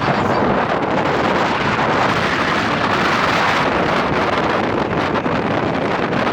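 Wind buffeting the microphone: a loud, steady rushing noise with an uneven low rumble underneath.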